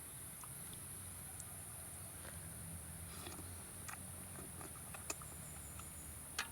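Steady high-pitched insect chorus, like crickets, with a few scattered sharp clicks, the loudest near the end.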